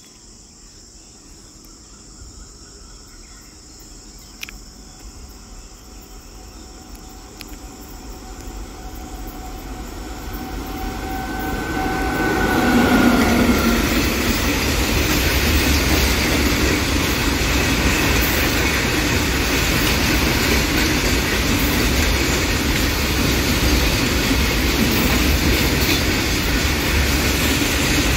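WAG-9 electric freight locomotive approaching, growing steadily louder until it passes about 13 seconds in, then a long rake of open freight wagons rolling past steadily.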